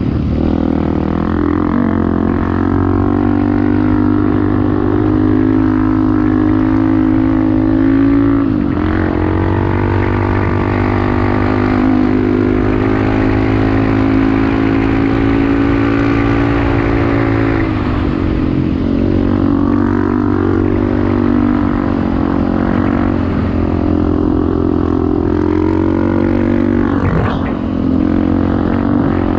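Off-road motorcycle engine running hard under steady throttle while riding through sand. Its pitch dips and climbs back again about three times.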